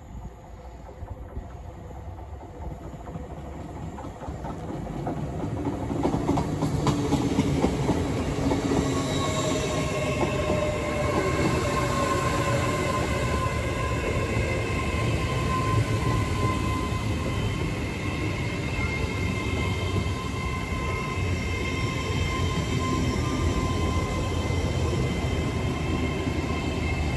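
LNER Class 800 Azuma train arriving and running slowly along the platform as it brakes to a stop. It grows louder over the first six seconds, then holds a steady rumble of wheels on rail with high, steady squealing tones and a whine that slowly falls in pitch.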